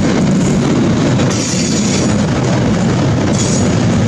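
Loaded double-deck car-transporter freight wagons rolling past at close range: a steady, loud rumble of wheels on the track.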